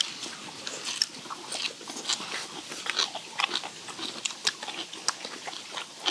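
People chewing steamed skate with crunchy bean sprouts and minari: a steady, irregular run of small wet crunches and mouth clicks, picked up close to the mouth.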